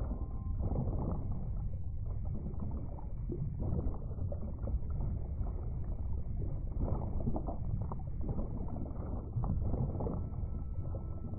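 Underwater sea ambience: a steady low rumble of water with irregular crackles.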